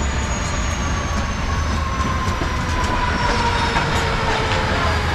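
Sleeper carriage rolling slowly into a station, heard through an open window: wheels running on the rails with a steady low rumble, a few faint clicks, and a thin whine that slowly falls in pitch as the train slows on arrival.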